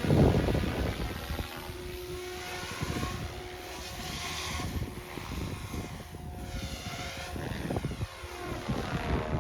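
OMPHobby M4 Max electric RC helicopter flying, its rotor whir rising and falling as it moves about. Wind buffets the microphone throughout, hardest just at the start.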